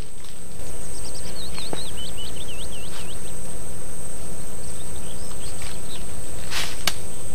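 A small bird sings a quick run of hooked chirping notes about a second in, with a few fainter notes later. Under it is the steady high buzz of insects and a low background rumble.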